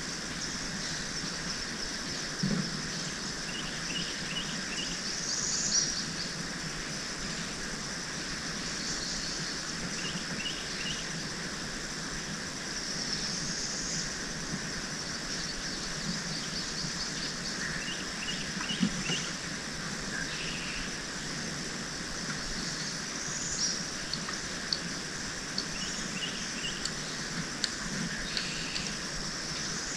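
Birds calling: a short run of three or four quick chirps recurs every several seconds, with a few higher calls, over a steady high-pitched background.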